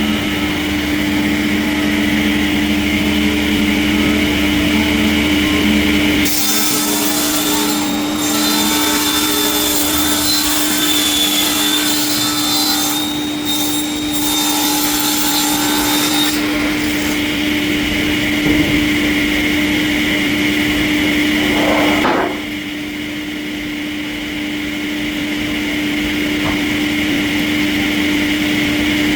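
Sawmill machinery running with a steady hum while saw blades cut through wood. The sound changes abruptly about six seconds in and again around the middle, then drops a little quieter about two-thirds of the way through.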